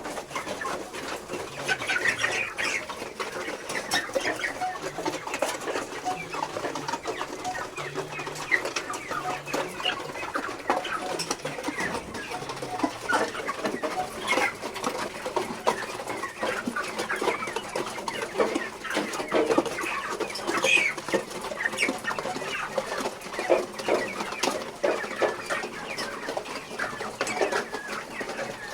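A flock of broiler chickens clucking, with many short calls overlapping continuously and scattered small clicks among them.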